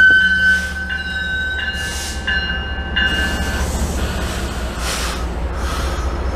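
MBTA commuter rail bilevel coaches braking to a stop, their wheels squealing in a steady high-pitched tone that fades out about three seconds in as the train halts. A low steady rumble continues underneath, with a few short hissing bursts.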